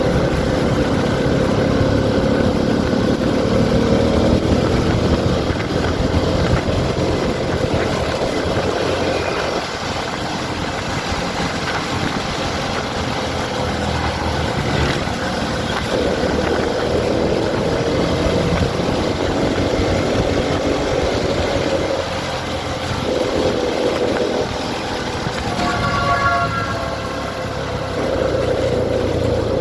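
Motorcycle engine running on the road, its pitch drifting up and down with the throttle over steady road and wind noise; a brief higher-pitched tone sounds near the end.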